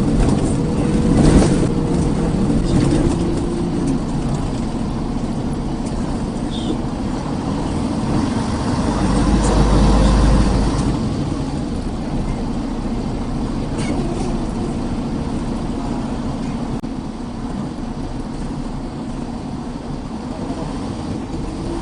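Steady engine and road noise of a moving car. A short knock comes about a second in, and a deep rumble swells around nine to eleven seconds in.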